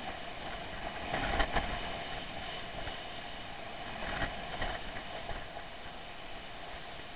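Typhoon-force wind blowing steadily, swelling in gusts about a second in and again around four seconds in.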